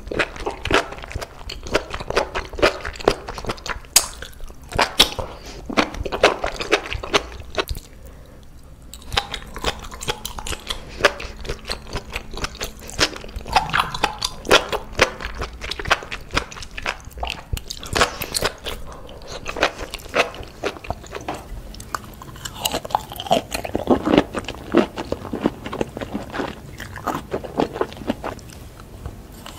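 Close-miked eating of spicy sauce-coated mushrooms: biting and chewing with wet, squishy mouth sounds and frequent sharp clicks and crunches.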